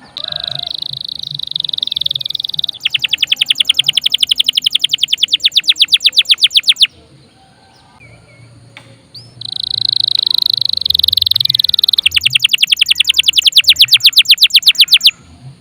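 Domestic canary singing two loud song phrases about two seconds apart. Each phrase opens with a sustained high buzzy note, then breaks into a fast rattling trill of about ten notes a second that grows louder before it cuts off.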